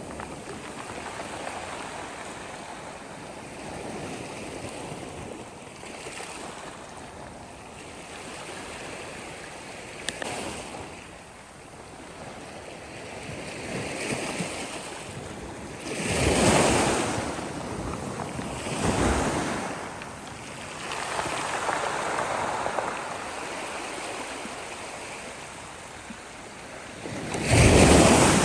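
Sea waves washing onto the shore in a rising and falling hiss, with louder surges about two-thirds of the way in and again near the end.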